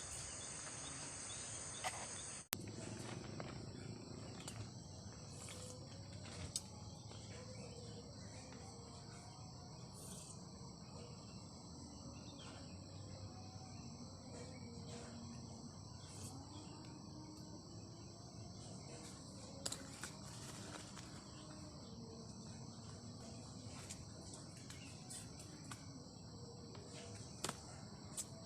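Crickets and other insects chirping in a steady high-pitched chorus, with faint lower wavering calls beneath and a few light clicks. There is a sudden break about two and a half seconds in.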